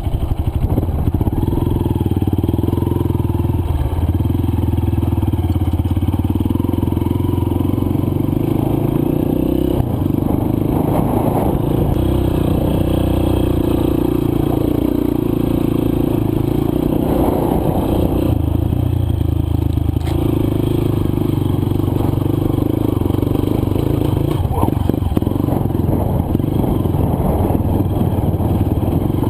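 Single-cylinder four-stroke dirt bike engine running continuously while riding along a trail. The revs dip and pick up again a few times.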